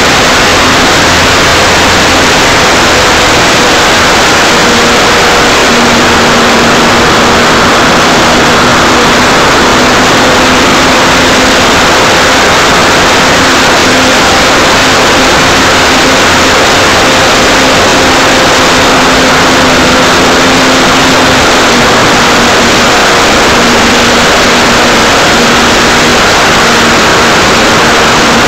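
Electric RC Cessna 182 model in flight, heard through the small microphone of a keychain camera on its nose: a loud, steady rush of wind over the microphone, with a faint, slightly wavering hum from the motor and propeller underneath.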